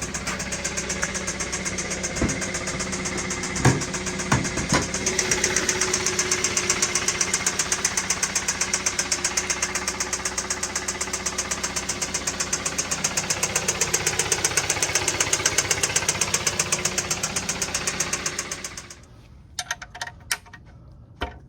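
2017 Kia Optima's 2.4-litre four-cylinder engine running with a rattling, clanky rod knock, a fast even knocking with a few louder strikes early on: a sign of worn or spun rod bearings, in an engine run without oil changes. Near the end the engine cuts off abruptly, followed by a few light clicks.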